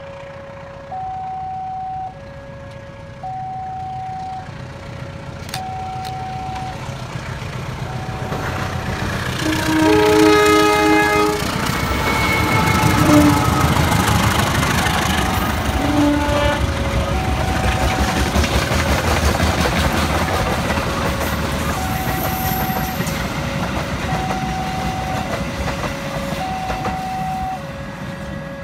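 A level-crossing warning alarm alternating between two tones, about one tone a second, throughout. About ten seconds in, a diesel locomotive's horn blows for about two seconds, with a short second blast a few seconds later. The train then passes with a loud rumble and clattering wheels on the rails.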